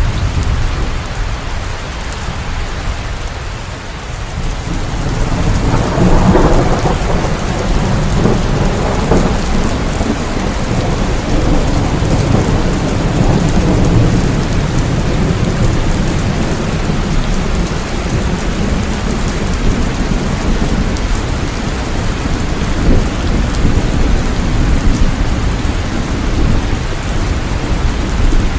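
Steady heavy rain with rolling thunder; a rumble swells about six seconds in and then rolls on under the rain.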